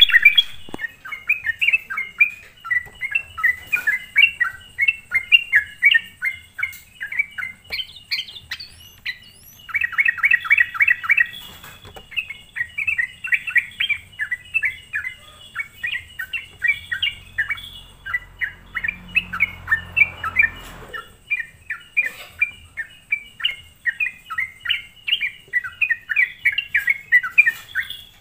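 Yellow-vented bulbul (trucukan) calling energetically, a dense, almost unbroken run of quick bubbly chirps: a lure call used to provoke wild bulbuls of the same species.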